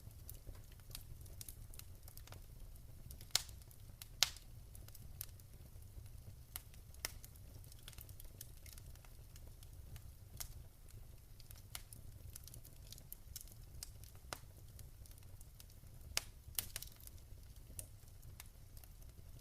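Wood fire crackling: sharp, irregular pops and snaps, a few louder ones about three and four seconds in and again near the end, over a low steady rumble.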